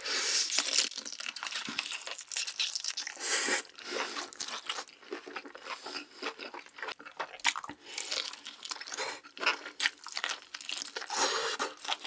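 Close-miked biting and chewing of boiled lobster meat: a dense, continuous run of crunchy mouth clicks and smacks.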